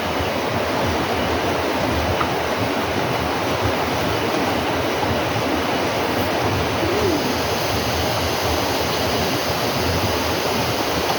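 Steady rush of flowing water, as of a stream or small waterfall, running evenly with no breaks.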